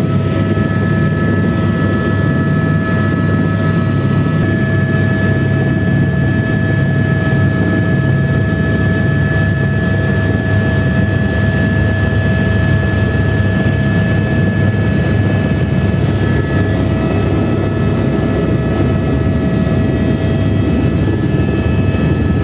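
Eurocopter AS350 (Airbus H125) single-turbine helicopter running steadily: a loud, even low rotor thrum with a steady high turbine whine.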